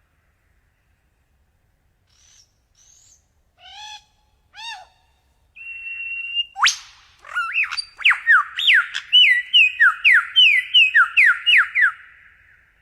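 A songbird singing: after a silent start come a few faint chirps, two clear arched whistled notes, and a held note. From about halfway in there is a fast, loud run of sharp rising whistled notes.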